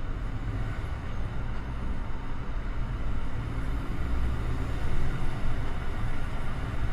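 Steady low rumble of a moving road vehicle: engine and tyre noise.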